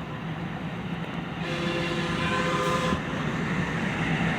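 Two-car DART light-rail train approaching, its rumble growing. It sounds its horn for about a second and a half near the middle.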